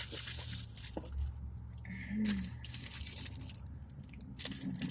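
Close-up chewing and mouth sounds of someone eating a chili burger: a run of short wet smacks and clicks.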